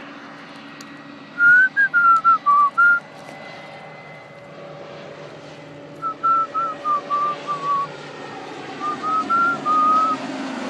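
A person whistling a tune in three short phrases of clear, stepped notes over the steady drone of an airplane, whose pitch drifts slightly lower near the end.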